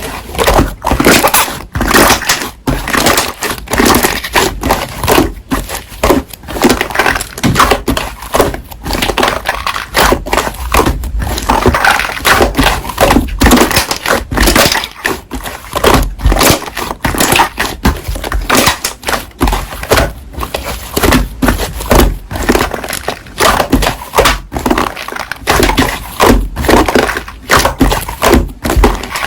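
Slime being squeezed and pressed by hand, making dense, irregular crackling and popping throughout.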